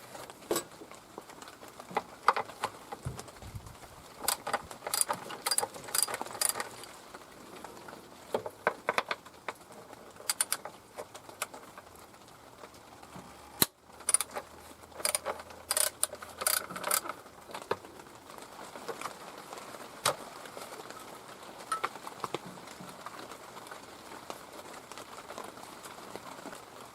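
Hand tools clicking and clinking against metal engine parts, in scattered single clicks and short bursts of rapid clicks.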